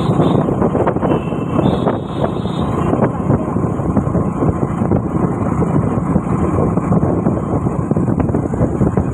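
Motorcycle riding along a road: steady engine and road noise, with wind on the microphone.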